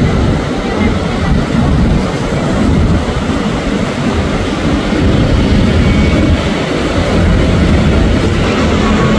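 Steady rumble of a train running away down the track, heard as a dense, even noise heaviest in the low end.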